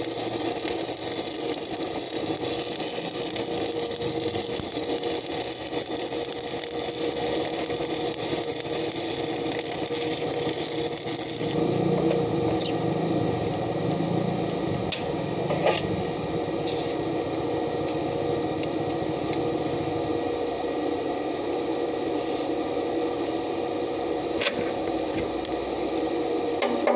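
Stick (arc) welding: the electrode's arc crackles and hisses steadily, then stops abruptly a little under halfway through. An engine keeps running steadily throughout, and after the arc stops there are a few sharp taps.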